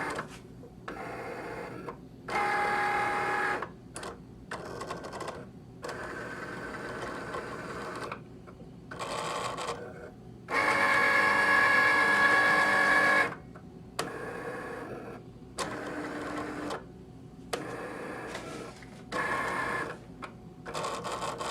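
Cricut cutting machine's motors whirring in a series of short runs with pauses between them as the carriage and mat shift back and forth to scan the printed registration marks before cutting. The longest and loudest run comes about halfway through.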